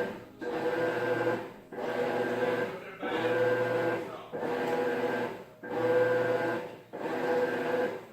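Maytag top-load washer agitating, its motor and drive whining in repeated strokes with a brief drop at each reversal, about every 1.3 seconds.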